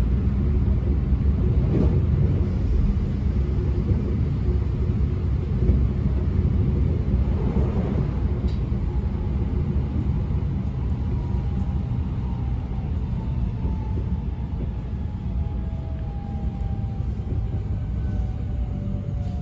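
Electric commuter train running, heard from inside the carriage: a steady low rumble of wheels on rail. About halfway through, a faint motor whine appears and slowly falls in pitch as the train slows.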